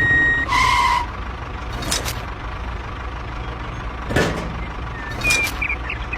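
A vehicle engine running steadily, with a short high beep at the start and a two-tone beep just after it, then a few sharp knocks and small squeaks.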